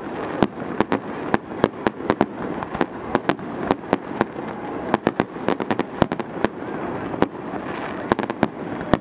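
Fireworks display: a rapid, irregular run of sharp bangs, several a second, over a steady background noise.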